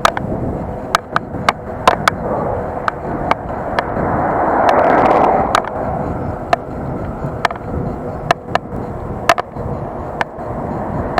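Bicycle rolling along a road, with wind rushing over the action-camera microphone and swelling about four seconds in and again near the end. Sharp, irregular clacks and rattles come from the bike and camera jolting over bumps in the pavement.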